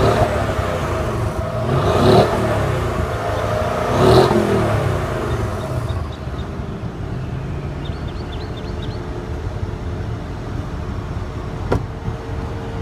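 The 2014 Mercedes-Benz ML63 AMG's 5.5-litre twin-turbo V8 is blipped three times about two seconds apart, its pitch rising and falling each time, then settles to a steady idle. A single sharp click comes near the end.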